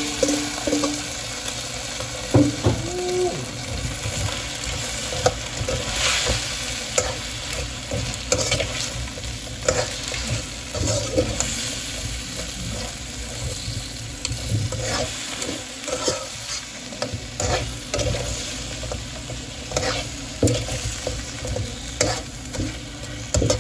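Whole crabs in their shells frying in hot oil in a wok, with a steady sizzle. A utensil stirs and tosses them, and it and the shells scrape and clatter against the wok many times.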